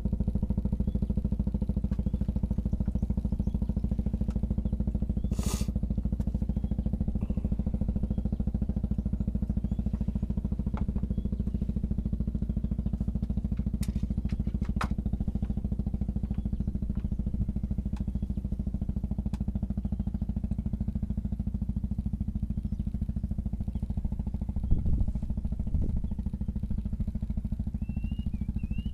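A small engine running steadily at an even idle. There are a couple of knocks about 25 seconds in, and short bird chirps near the end.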